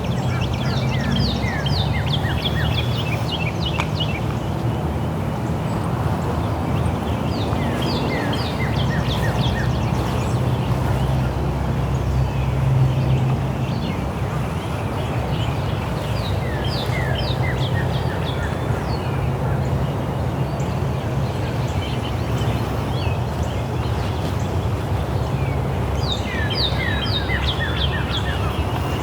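Birdsong outdoors: a bird sings phrases of quick, high, down-slurred notes, about four times, each phrase lasting two to three seconds, over a steady low hum.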